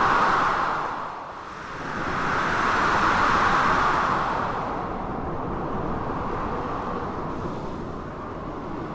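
Storm ambience of blizzard wind and crashing sea waves: a continuous rushing noise that swells twice, strongest around three seconds in, then settles to a steadier, lower level.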